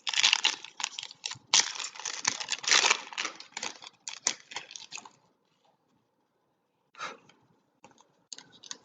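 Plastic trading-card pack wrappers being torn open and crinkled in the hands for about five seconds, then a short rustle near the end.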